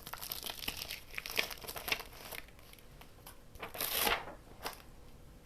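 Paper and craft supplies being handled: rustling and crinkling with small clicks for the first couple of seconds, then one louder rustle about four seconds in.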